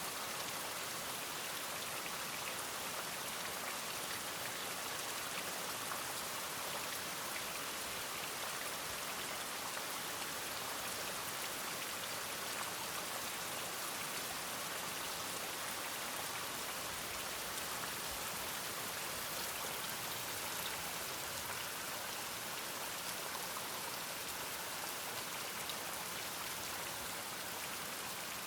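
Steady rain falling: an even, dense patter of drops that stays the same throughout.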